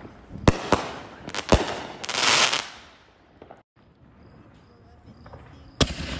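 Trilogy consumer artillery shells going off: two sharp bangs of a shell bursting overhead, about a second apart, then a loud hiss lasting under a second. Near the end, the next shell's lift charge bangs as it fires out of the mortar tube.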